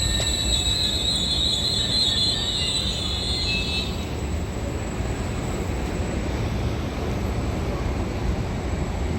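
Regional passenger train braking to a stop at a station. A high squeal of several pitches holds for the first four seconds or so, then cuts out, leaving a steady low rumble.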